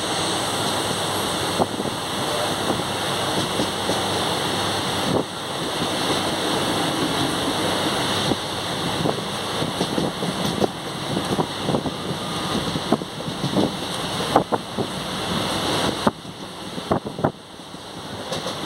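Wind rushing in at an open window of a moving train, over the train's running rumble. Short, irregular clacks of the wheels over the rail joints come more often in the second half, and the rushing eases for a moment near the end.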